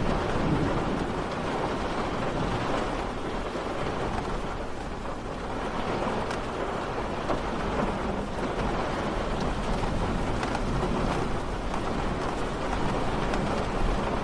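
Steady rain falling: an even hiss with faint scattered drop ticks and a low rumble underneath.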